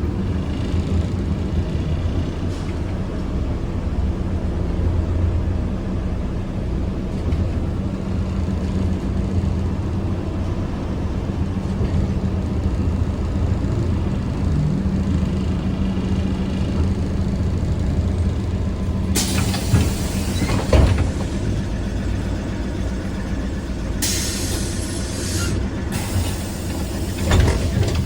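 Ride inside a ZiU-682G-016.02 trolleybus: a steady low hum and road rumble, with two short stretches of hissing air about two-thirds and six-sevenths of the way through.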